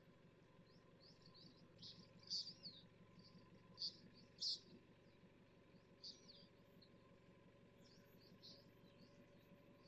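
Wild birds chirping: a scatter of short, high calls, the loudest a few seconds in, over a faint low steady hum.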